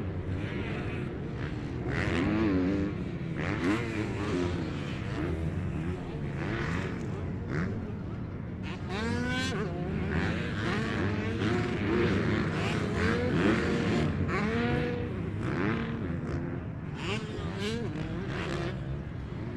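Several motocross motorcycles racing, their engines revving up and down and overlapping as the bikes accelerate, shift and back off around the track.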